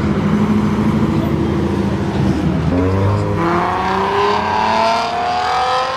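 Car engine rumbling at low revs, then, about halfway through, accelerating hard, its pitch rising steadily as it pulls away.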